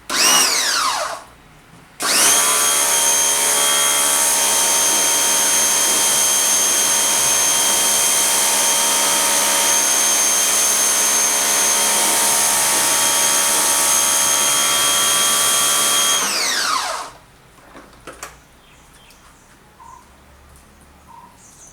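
Electric pressure washer motor with the hiss of its water spray. A short run about a second long winds down, then the motor starts again about two seconds in and runs steadily for about fourteen seconds before its pitch falls away as it stops.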